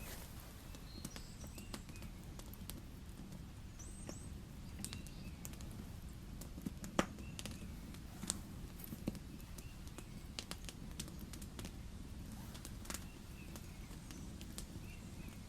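Wood campfire crackling, with irregular sharp pops scattered throughout, the loudest a little after halfway, over a steady low rumble. A few faint short high chirps come and go.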